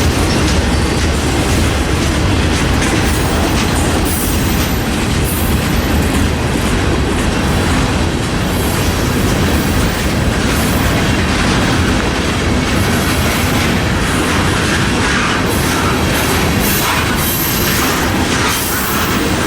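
Freight train cars rolling past at close range: steady, loud wheel and rail noise with clickety-clack of wheels over the rail joints, and sharper clicks toward the end.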